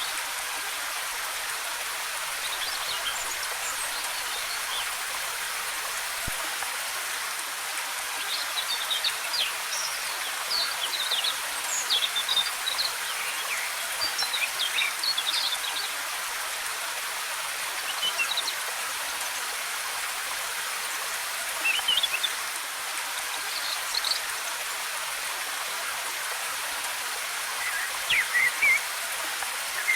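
Steady rushing of a waterfall, with small forest birds chirping on and off above it: a busy run of chirps about a third of the way in, scattered calls after that, and another burst near the end.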